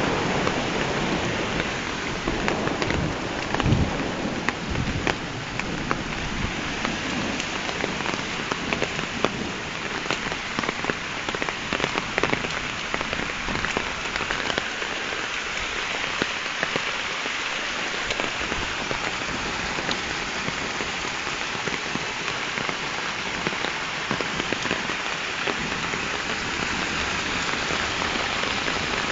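Heavy rain falling steadily on hard surfaces, with single drops ticking through the downpour. A low rumble of thunder dies away in the first few seconds.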